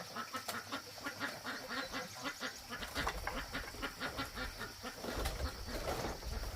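A flock of ducks quacking, many short calls overlapping in quick succession, with a low rumble joining about halfway through.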